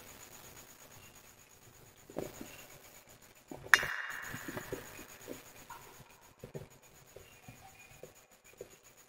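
Wood fire crackling with sparse small pops and snaps. One loud sharp crack comes about three and a half seconds in, followed by a brief hiss as it dies away.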